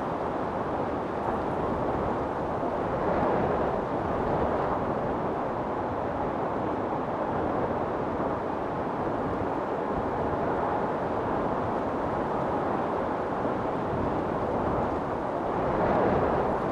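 Storm wind blowing steadily with a deep rumble, gusting stronger about three seconds in and again near the end.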